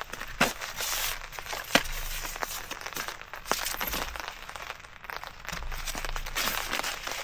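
Rustling and crinkling of camping gear being handled, with irregular sharp ticks and a couple of louder clicks about half a second and nearly two seconds in.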